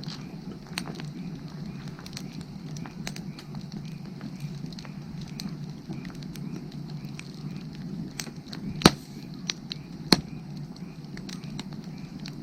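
Wood fire burning with a steady low rush and scattered small crackles, and two loud sharp pops about a second apart late on. Frogs call faintly and regularly in the background.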